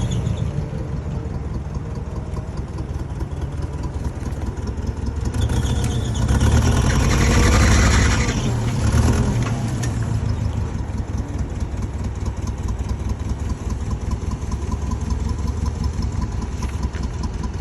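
A vehicle engine running steadily, with a louder swell a third of the way in that rises and then falls in pitch before settling back.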